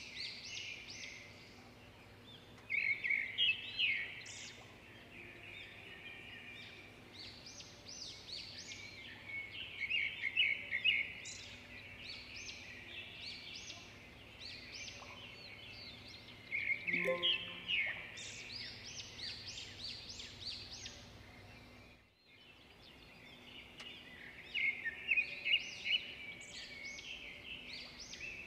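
Birds chirping and singing in repeated bursts of quick, high notes a few seconds apart, over a faint steady hum.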